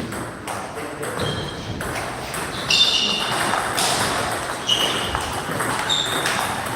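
Table tennis ball clicking off bats and the table during play, over a steady hall background, with several short high-pitched squeaks, the longest about three seconds in.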